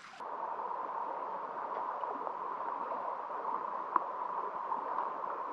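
Creek water flowing and babbling steadily, with a single faint click about four seconds in.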